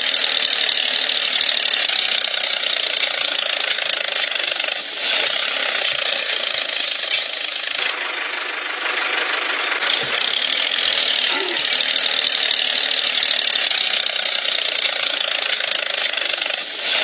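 Small electric motor and gears of a home-made miniature tractor model, running steadily with a high-pitched mechanical noise.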